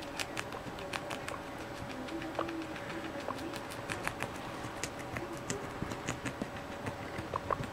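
Guinea pigs chewing cabbage: rapid, irregular crunching clicks, with a few brief faint squeaks, over a steady background hum.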